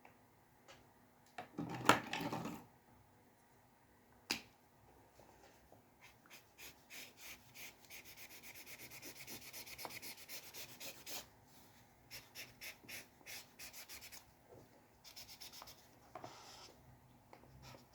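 A drawing tool scratching across paper in runs of quick, repeated short strokes, several a second, with short pauses between runs. About two seconds in there is a louder rub and knock, and just after four seconds a single sharp click.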